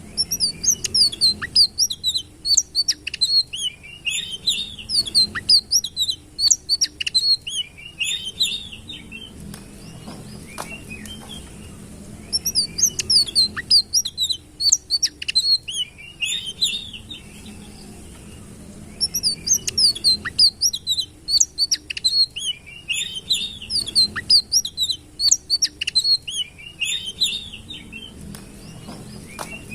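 A sitrun songbird singing long, rapid phrases of high chirps and trills, with short pauses between the bouts.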